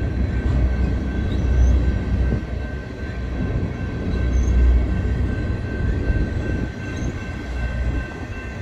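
BNSF double-stack intermodal container train rolling past with a heavy low rumble and a steady high squeal, the freight train braking toward a slow stop.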